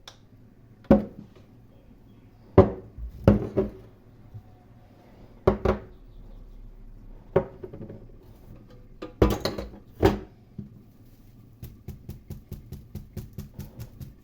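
Kitchen clatter: dishes and utensils knocking in several sharp, separate impacts, then a quick run of light taps, about five a second, near the end.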